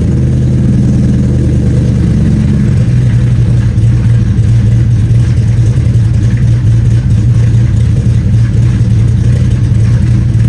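Ford Coyote 5.0 L V8 in a Factory Five Mk4 Cobra idling after a cold start. About three seconds in, the even warm-up idle gives way to a choppier, uneven lope: the Lund "ghost cam" idle tune taking over from the warm-up tune.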